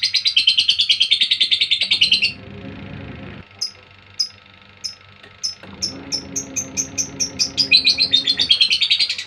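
Female lovebird's chattering song: a fast, loud trill of high chirps that breaks off about two seconds in, then single sharp chirps that come quicker and quicker until they run together into a fast trill again near the end. This is the kind of song played as a 'pancingan' to trigger other lovebirds to sing.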